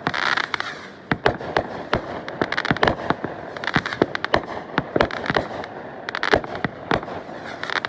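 Fireworks going off in a rapid, irregular string of sharp bangs and pops, many close together, with a short crackle just after the start.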